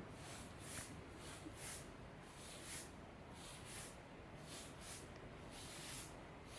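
Faint, irregular rustling: soft brushes of noise, roughly two a second, over a low steady background hum.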